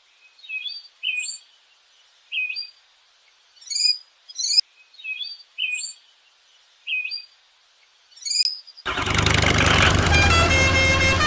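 Birdsong sound effect: a short sequence of chirps and whistles played twice in a loop. About nine seconds in, a loud vehicle engine sound cuts in, with steady pitched tones over a low rumble.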